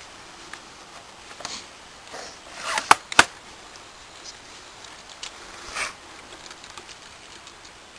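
Quiet handling noises with two sharp clicks close together about three seconds in, and a few softer brief rustles and taps.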